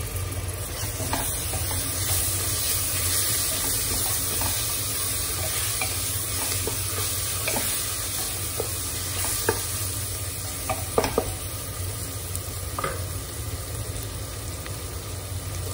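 Browned onions with ginger-garlic paste and turmeric sizzling steadily in hot oil in a pressure cooker. A wooden spatula stirs and scrapes them, knocking now and then against the pot, with the loudest knocks a little past the middle.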